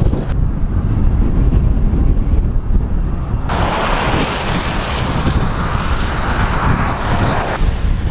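Heavy wind buffeting the microphone. A loud hiss cuts in about three and a half seconds in and stops abruptly about four seconds later.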